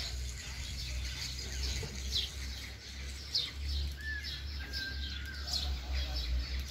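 Small birds chirping: short, high, falling chirps about once a second, with one longer level whistle about four seconds in, over a steady low rumble.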